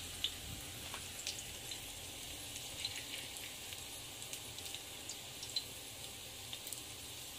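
Corn fritters frying in shallow oil: a steady low sizzle with many small, scattered crackles and pops.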